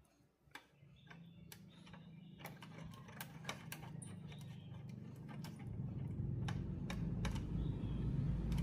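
Light, scattered clicks of small parts and tools being handled, with a low electrical hum that rises from about a second in and grows louder past the middle.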